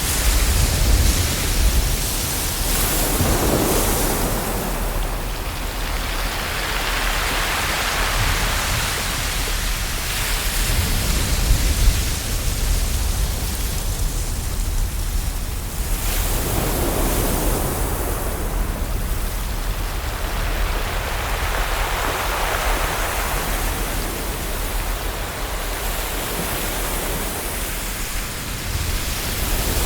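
Ocean waves breaking and washing in, swelling and ebbing about every five seconds over a steady low rumble.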